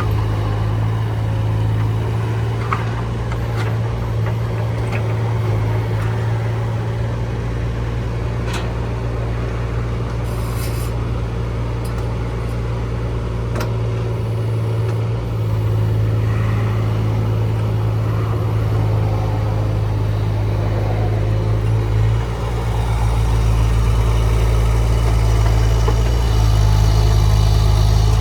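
Mini excavator's engine running steadily under load, with a few sharp clicks and knocks; it grows louder about two-thirds of the way through.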